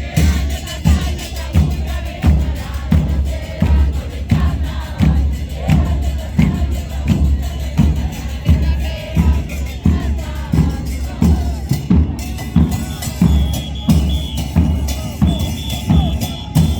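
Carnival parade drumming: bass drums beat a steady loud rhythm, about two beats a second, with other percussion and crowd voices mixed in.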